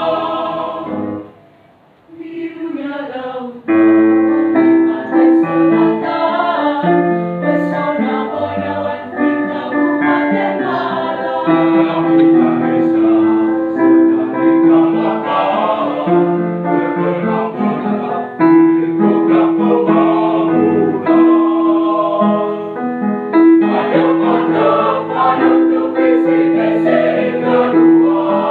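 A choir singing a song in close harmony. The singing breaks off briefly about a second in, comes back with a rising glide, and then runs on in full with long held notes.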